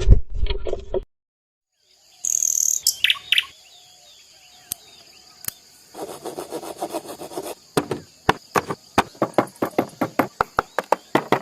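Small birds, sparrows by the video's account, chirping over a steady high insect whine, after a loud noisy sound that cuts off abruptly about a second in and a moment of dead silence. From about the middle, a fast series of sharp ticks or clicks runs at roughly two to three a second.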